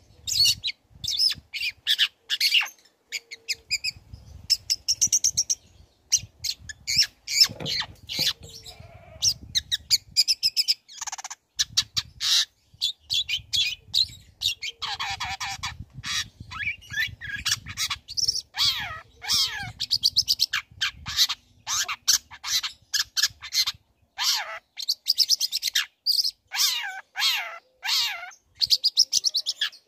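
Long-tailed shrike (cendet) singing a fast, varied song: rapid runs of short notes mixed with sweeping whistled notes, broken by brief pauses.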